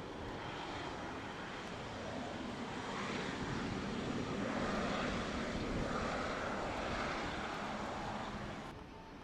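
Jet engine roar from a Boeing 777-300ER's GE90 turbofans, growing louder through the middle seconds. It drops off suddenly near the end.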